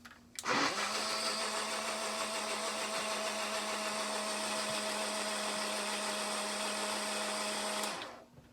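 Small electric mixer whirring steadily as milk is mixed up for a lamb to bottle-feed; it starts about half a second in and cuts off near the end.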